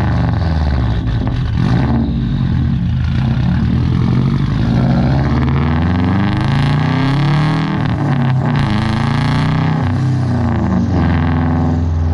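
Subaru turbocharged flat-four engine and exhaust, loud, its pitch climbing and then dropping several times as the car pulls through the gears.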